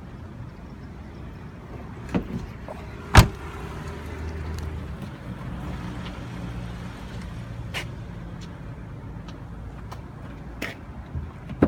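A panel of a 2003 Chevrolet Avalanche being let down: a click, then a heavy thump about three seconds in, followed by a steady low hum and a few scattered clicks near the end.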